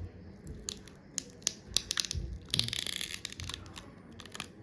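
Scattered small clicks and crackles of hands and tools working on an iPhone's housing. About halfway through comes a half-second burst of crackling tearing as old adhesive is pulled away.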